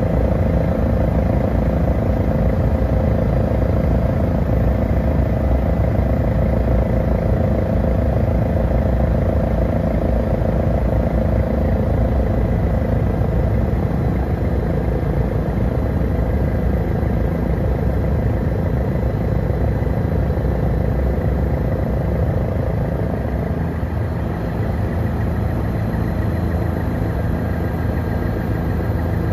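Helicopter turbine and rotor noise heard from inside the cabin, a steady loud drone with several held tones over a low rumble, easing slightly about two-thirds of the way through.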